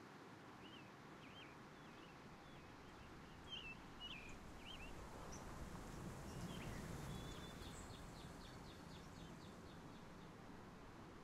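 Faint bird chirps over steady background noise: several short separate chirps, then a quick run of about ten notes a little past halfway.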